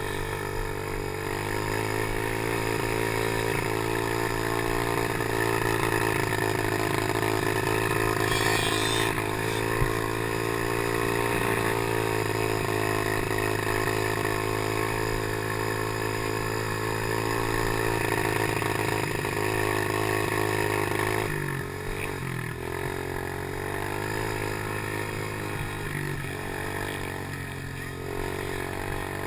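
Small single-cylinder engine of a Chinese PY90 geared pit bike running on the throttle, its pitch drifting gently up and down. It eases off briefly about two-thirds of the way through and again near the end.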